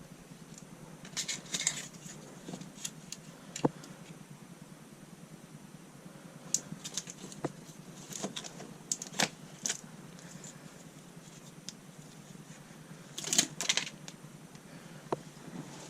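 Scattered clicks, taps and crinkles of bitumen sound-deadening mat being handled and pressed down by hand, coming in short clusters with the loudest near the end.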